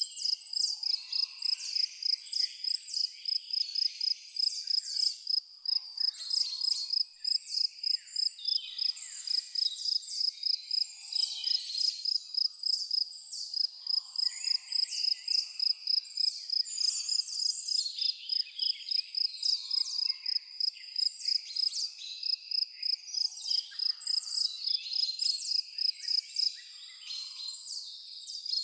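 An insect, likely a cricket, chirping in a steady high-pitched pulse, about three chirps a second, with many birds calling over it in short, quick chirps.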